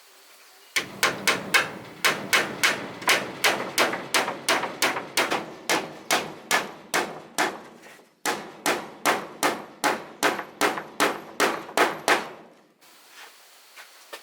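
Steady hammering on wood, about three sharp blows a second, typical of driving nails into wall boards. The blows stop briefly about eight seconds in, start again, and stop shortly before the end.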